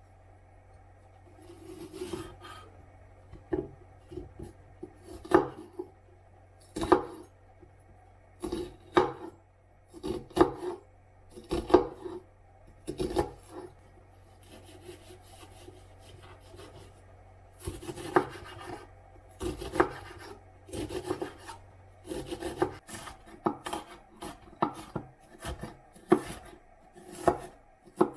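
Knife chopping food on a wooden cutting board: irregular knocks, sometimes single and sometimes in quick runs, with pauses between them.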